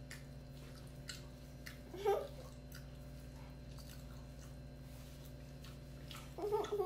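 Quiet eating sounds: a person chewing food, with faint scattered clicks, over a steady low background hum. A brief vocal sound about two seconds in and another short voice sound near the end.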